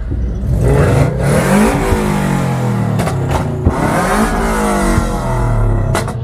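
Car engine revved hard twice while parked, the pitch climbing for over a second starting about half a second in, and again around four seconds in, dropping back to a steady run between. A few sharp cracks come through the revving.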